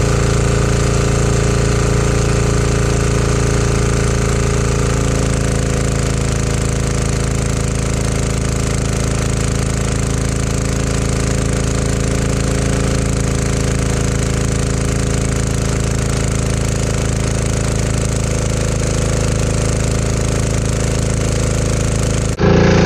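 Single-cylinder 168F air-cooled diesel engine running a generator steadily under maximum load, with a hard diesel clatter, fuelled on used 5W40 motor oil. The sound cuts off abruptly near the end.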